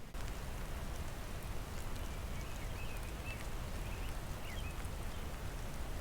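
A few faint, short bird chirps in the middle of the clip over a steady hiss.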